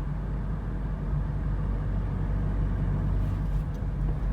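Steady low rumble of a car driving at highway speed, heard from inside the cabin: engine drone and road noise.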